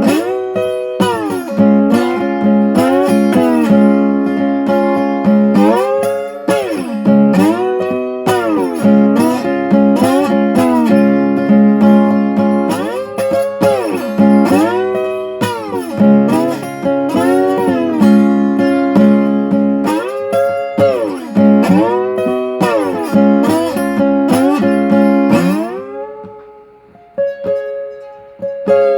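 Blues played on a slide guitar: plucked notes that glide up and down in pitch. Near the end the playing thins to a few sparse notes and a final falling slide.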